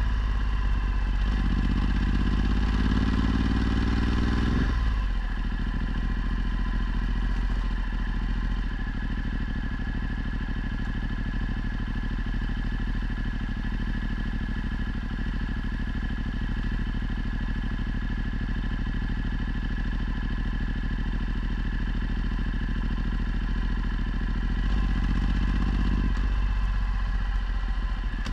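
Ducati Multistrada 1260's 1262 cc V-twin through a Termignoni exhaust under way. The revs climb for a few seconds and cut off at a gear change, then it holds a steady cruise, with the engine picking up again near the end.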